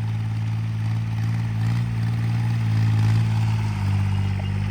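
Homemade 26 hp tractor's engine running steadily with the throttle held up, pulling a tined cultivator through the soil.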